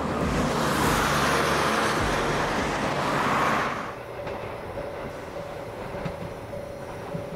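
Electric train on the JR Iida Line running on the rails: a loud rushing rail noise that drops away sharply about four seconds in, leaving a quieter hum with a few light clicks.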